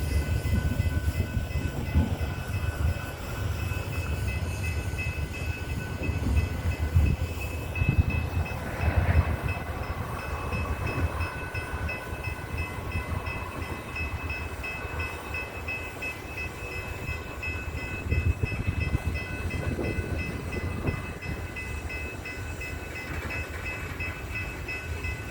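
Coal train's cars rolling on the tracks: a low rumble with irregular clunks, and a few steady high-pitched tones held over it.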